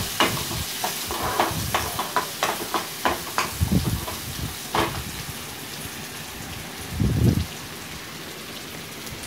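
Shallots and green chillies sizzling in oil in a coated kadai, with a steel spoon clicking and scraping against the pan as they are stirred through the first five seconds. A single dull thump, the loudest sound, comes about seven seconds in, then only the steady sizzle.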